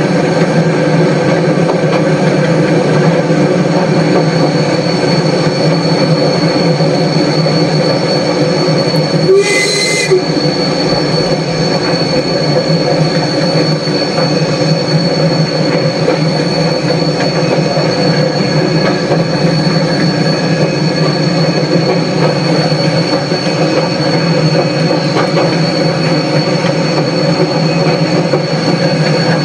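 Heritage railway train running steadily along the line: a continuous rumble with a high, steady wheel squeal ringing over it. The sound is briefly interrupted about nine seconds in.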